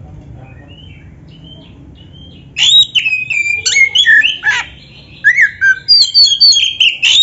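Oriental magpie-robin (kacer) singing vigorously: a rapid run of varied whistles, chirps and harsh notes, many sliding in pitch, in two loud bouts starting about two and a half seconds in. Before the bouts there are only faint scattered chirps.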